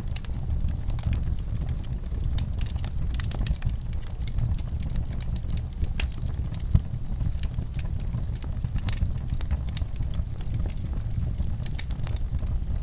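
Fire crackling, with frequent sharp irregular pops and snaps over a steady low rumble.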